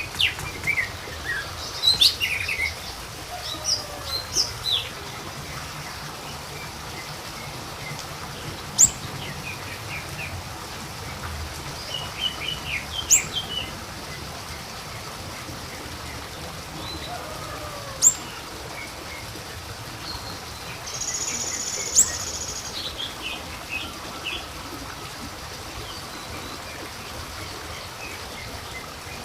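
Siri-siri kecil bird calls used as a lure: scattered short high chirps, with a sharp piercing note every four to five seconds and one buzzy note about two-thirds of the way through, over a steady background hiss.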